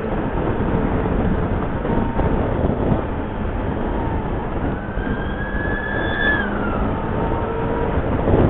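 Motorcycle running, with steady wind and road noise on the microphone. A faint whine rises slightly from the middle and falls away about two seconds later.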